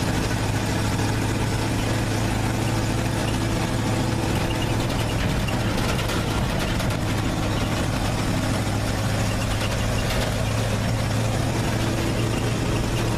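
Engine of a 1950s dump truck running steadily at an even, low pitch.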